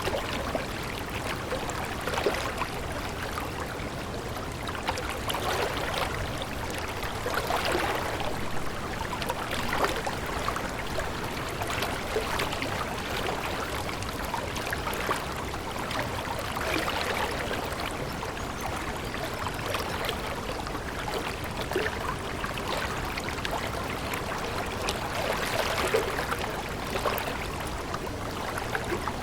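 Water running over stones in a small stream, a steady babble full of fine splashes that swells and eases every few seconds.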